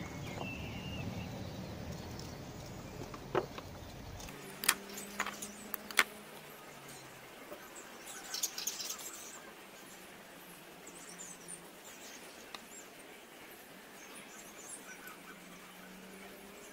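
Small birds chirping faintly, with a few sharp clicks from handling the wire and clay between about three and six seconds in.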